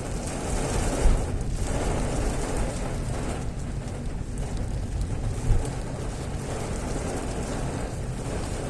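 Steady rush of fairly heavy rain mixed with wind buffeting the microphone and a low rumble from travelling along a road, with two brief louder thumps about a second in and about five and a half seconds in.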